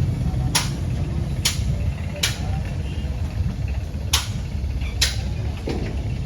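Radio-controlled toy tractor running: a steady low motor hum with sharp clicks about once a second.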